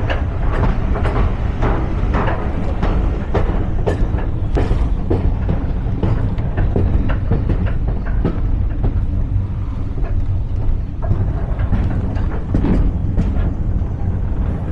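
Train running along the line: a steady low rumble with frequent clicks and knocks of the wheels over rail joints.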